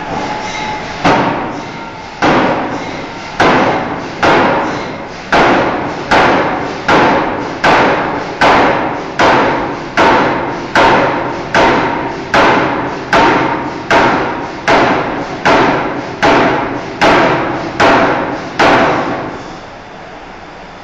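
Forging hammer striking a hot steel bar in a steady rhythm: about twenty-two heavy blows, a little more than one a second, each with a brief metallic ring, then the blows stop.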